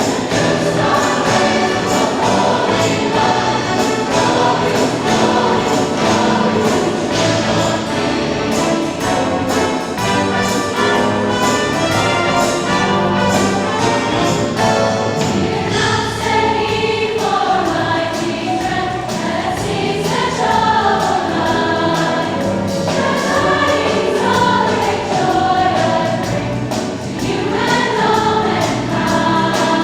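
Choir singing with instrumental accompaniment; the voices come more to the fore about halfway through.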